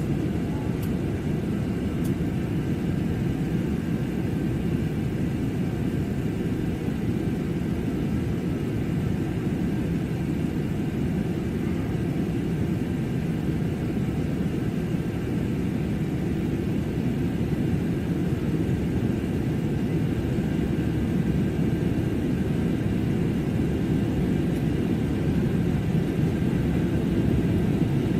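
Steady low rumble of an Airbus A320-family jet airliner's cabin noise in flight: engine and airflow noise heard from inside the passenger cabin, with faint steady higher tones above it.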